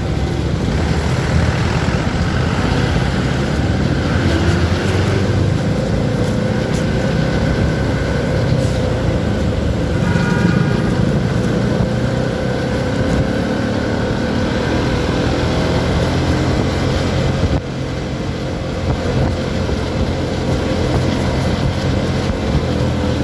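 CFMoto 300SR motorcycle under way: a steady engine note over wind and road noise, its pitch drifting slowly up and down with the throttle. The level drops briefly about seventeen seconds in.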